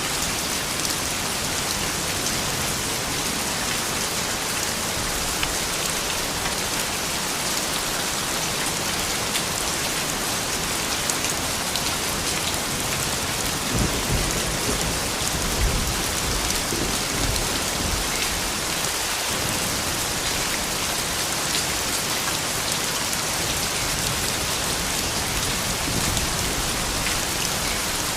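Steady rain falling on a hard surface, with scattered drop ticks. About halfway through, a low rumble rises for a few seconds, then fades back under the rain.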